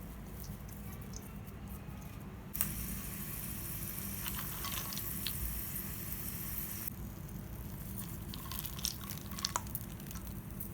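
Kitchen work at the stove: a steady hiss starts suddenly about two and a half seconds in and stops about seven seconds in, with light clicks and clinks of utensils.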